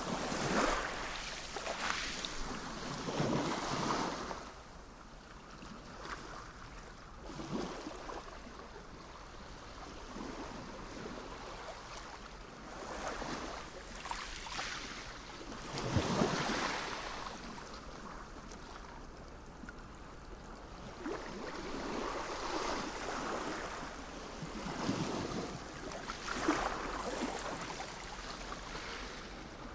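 Sea waves breaking and washing onto the shore, swelling and falling back every few seconds, with the biggest breakers near the start, about halfway through and near the end.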